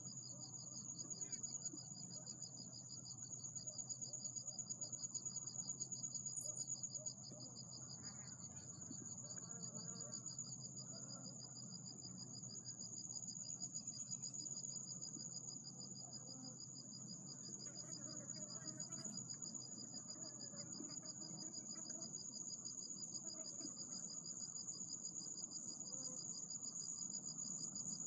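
Insects calling: a continuous, high-pitched pulsing trill at two steady pitches, over a faint low background rumble.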